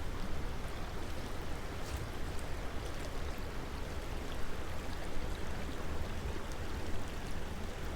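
Creek water running steadily over the streambed, an even rushing wash.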